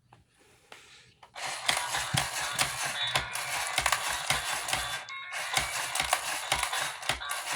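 Adventure Force Jawsome Jammer shark toy truck's small built-in speaker playing tinny music, starting about a second in, thin with almost no bass and mixed with many sharp clicks.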